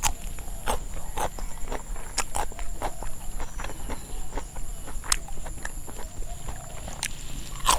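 Close-up chewing of a mouthful of Isan lemongrass miang with raw vegetables: irregular crisp crunches and mouth clicks.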